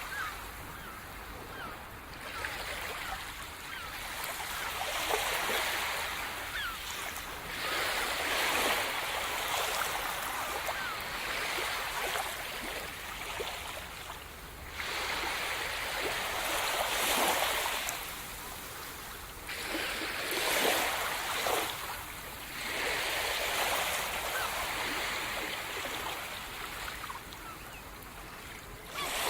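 Sea surf: waves breaking and washing up the shore, swelling and fading in repeated surges a few seconds apart.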